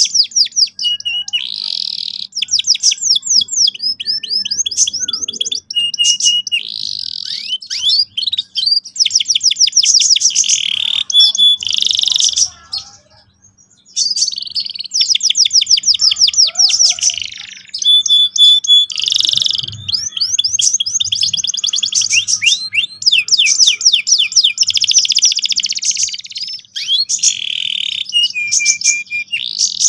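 Domestic canary singing a loud, continuous song of rapid rolling trills and chirps, with one short pause a little before halfway through.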